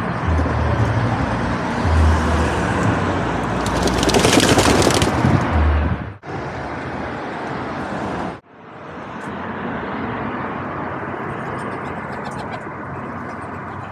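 Steady road traffic noise, with a louder rush about four to five seconds in. The sound cuts out abruptly twice, about six seconds in and again about two seconds later.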